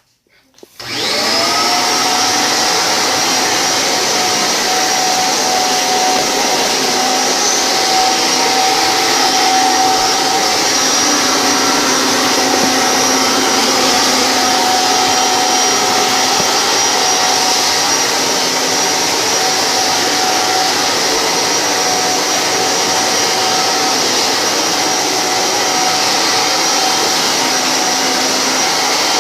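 Kirby G5 vacuum cleaner used in canister mode with its hose attachment, switched on and spinning up within the first second, then running steadily with a high motor whine over rushing air.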